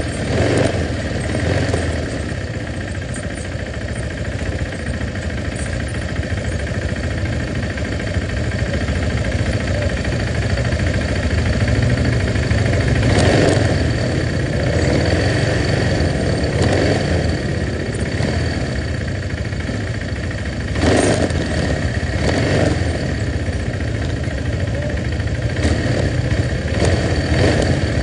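Motorcycle engine running steadily while being ridden, with two brief louder bursts of noise, one about halfway through and one later on.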